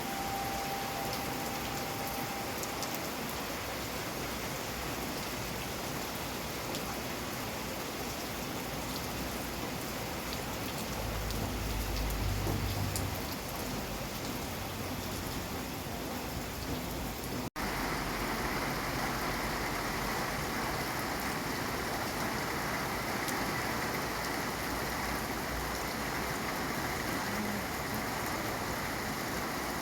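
Steady rain falling, an even hiss of many drops. A low rumble swells and fades about a third of the way through. Just past the middle the sound drops out for an instant, then carries on slightly brighter.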